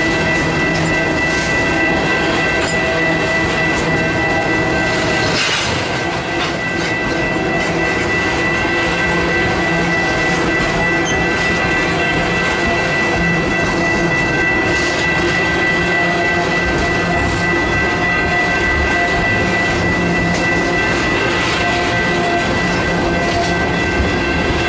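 Loaded tank cars of a freight train rolling past at close range, steel wheels rumbling and clacking over the rails, with a steady high-pitched ringing tone over it.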